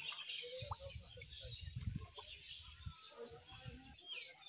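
Small birds chirping and calling in short, curving high notes, with a low rumble for about two seconds in the middle.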